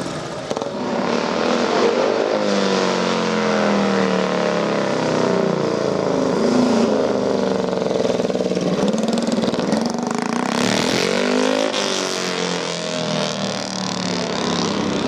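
Vintage motorcycle engines running loud, the engine note rising and falling several times as they are revved, with a louder rush around two-thirds of the way through.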